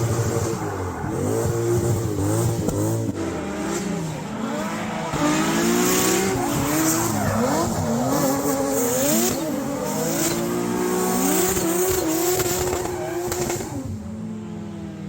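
Drift car's engine revving hard, its pitch rising and falling over and over with the throttle, with tyres squealing through the slides. It fades slightly near the end.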